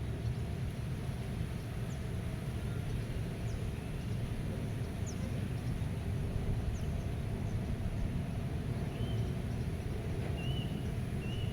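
Meadow ambience: a steady low rumble of wind, with faint bird calls over it, short high chips scattered throughout and a few brief whistled notes near the end.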